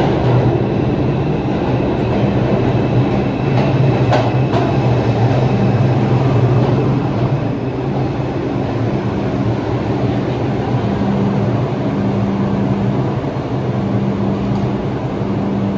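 R142 subway train running through the station: steady rumble and rail noise with a low, steady hum under it.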